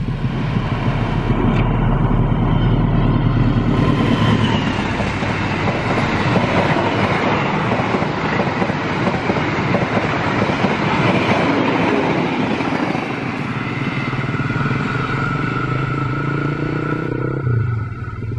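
Diesel-hauled passenger train passing close at speed: a low locomotive engine rumble for the first few seconds, then a steady rush and rattle of coach wheels on the rails. The sound drops away abruptly near the end.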